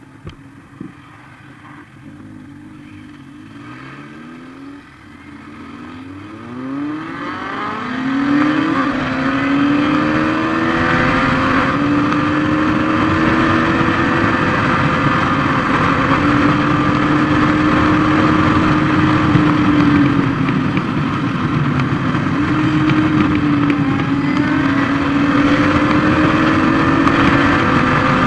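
Motorcycle engine growing louder over the first several seconds, its pitch climbing as it accelerates. It then runs at a fairly steady speed, the pitch wandering slightly up and down.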